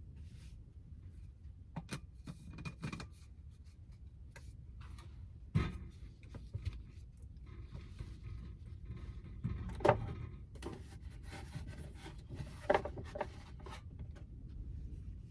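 Things being handled in a small space: scattered knocks, clicks and rustling, a few with a short ringing clink, over a steady low rumble.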